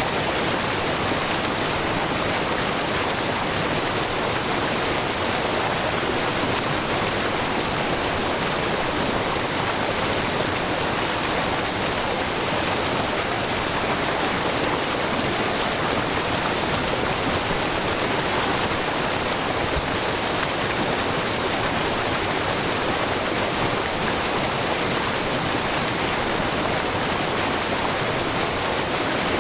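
Shiraito Falls, a low, wide waterfall of many thin spring-fed streams spilling over a rock face, rushing and splashing steadily into the pool below.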